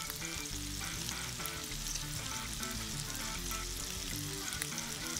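Meatballs frying in hot butter in a pan: a steady sizzle with fine crackling, under background music.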